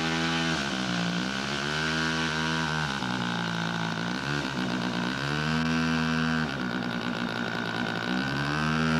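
Radio-controlled model airplane engine running, its pitch rising and falling several times as the throttle is opened and closed.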